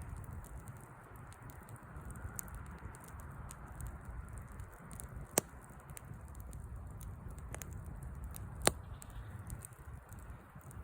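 Wood fire crackling: scattered small snaps and pops over a low steady rumble, with two sharp, louder pops about five and a half and eight and a half seconds in.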